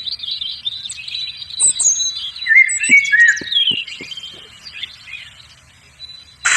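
Small birds chirping and twittering: many short chirps and quick gliding whistles, busiest in the middle and thinning out near the end, with a few light taps in between.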